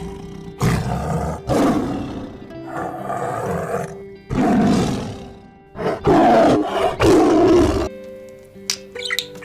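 Tiger roaring, about six long rough roars one after another, over background music with steady held notes. The roars stop near the end and the music carries on alone.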